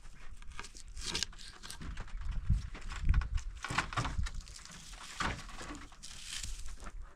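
Irregular rustling and crinkling, with scattered soft knocks, as of material being handled.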